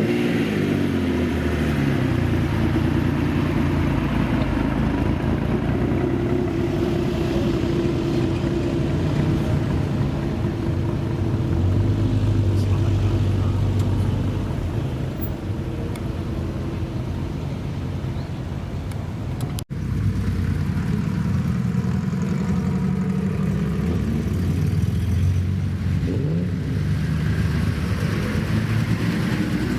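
Old cars' engines running and revving as they move past, the pitch rising and falling with the throttle. The sound drops out for an instant about two-thirds of the way through, then the engines carry on, with one revving up near the end.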